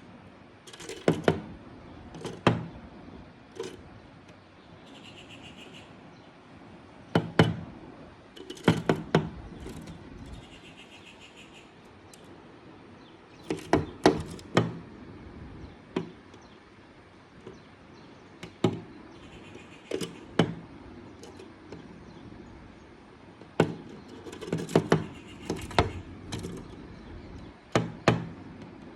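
Sharp knocks and taps in irregular clusters of two to four, a few seconds apart, with a faint high rasping sound twice between them.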